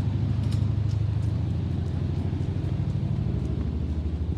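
Helicopter flying overhead: a steady low rumble with a rapid, even pulsing.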